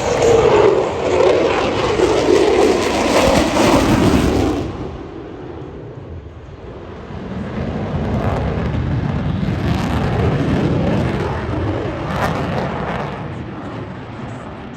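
F-22 Raptor's twin Pratt & Whitney F119 turbofans passing overhead as a jet roar. It is loud for about the first four and a half seconds with a falling pitch, drops away, then swells again for several seconds before fading.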